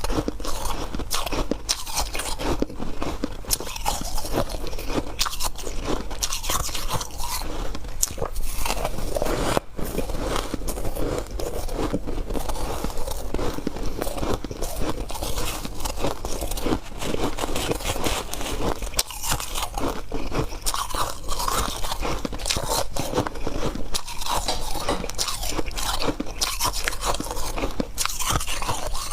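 A person biting and chewing hard white ice close to the microphone: dense, irregular crunching with no pauses.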